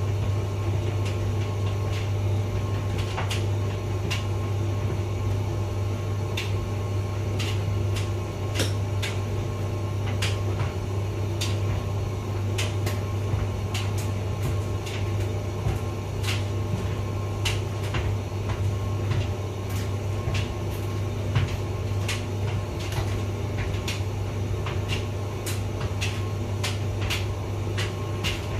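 Hotpoint vented tumble dryer running: a steady low hum from the motor and drum, with irregular light clicks throughout.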